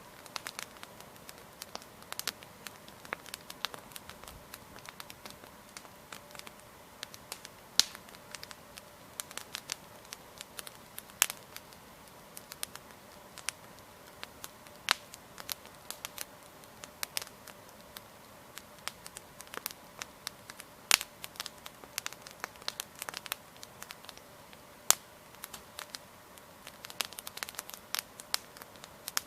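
Wood campfire crackling, the burning logs giving irregular sharp pops and snaps, a few much louder than the rest, over a faint steady background.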